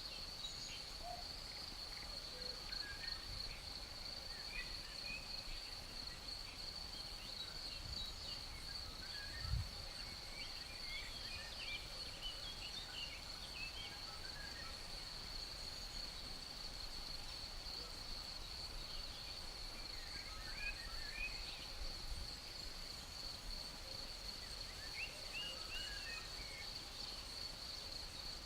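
Crickets trilling in one steady, unbroken high note, with small birds chirping and twittering here and there, over a low breeze rumble. A brief low thump comes about nine and a half seconds in.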